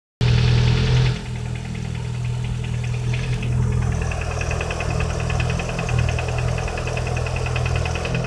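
VAZ-21126 1.6-litre 16-valve four-cylinder engine running at idle, with a fast, even metallic ticking knock in time with the engine from about four seconds in. This is the knock that has appeared after a major overhaul with an STK piston and conrod set. The engine runs louder for about the first second, then settles.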